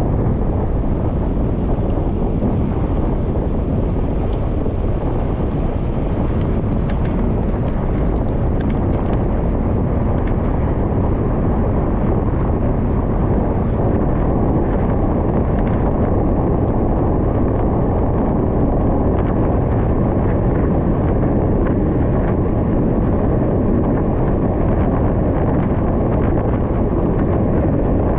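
Steady wind rush buffeting the microphone of a bicycle rider moving along a gravel road, with faint scattered ticks over it.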